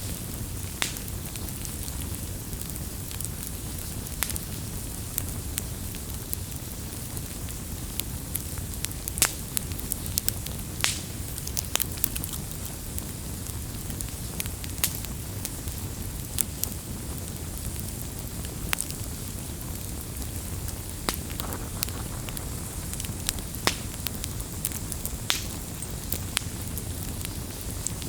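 Wood fire burning and crackling, with irregular sharp pops and snaps over a steady low rush.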